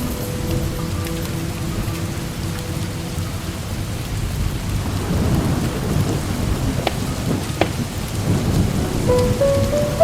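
Steady heavy rain with a low rumble of thunder swelling about halfway through, and two sharp crackles from burning firewood in a fireplace.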